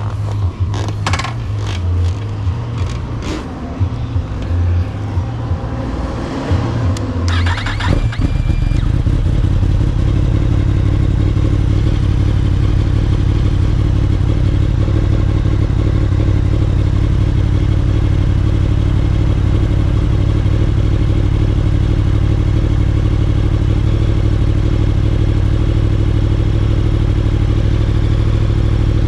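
Motorcycle engine running, heard from the rider's seat. Irregular low buffeting and clatter fill the first several seconds, then from about eight seconds in it settles into a steady low drone.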